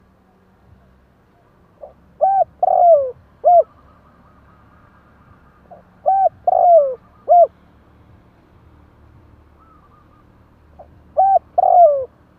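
Spotted dove cooing: three phrases about four seconds apart, each a few short coos around one longer, falling coo. It is the male's territorial call, played as a decoy to draw wild doves.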